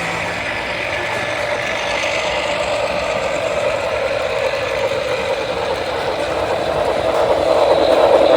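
Model train running on the layout, a steady engine-like hum and running noise from the locomotive that grows louder near the end as it comes closer.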